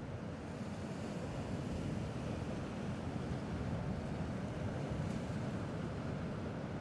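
Gentle sea waves washing on a rocky shore, heard as a steady wash, with a low rumble of wind on the microphone.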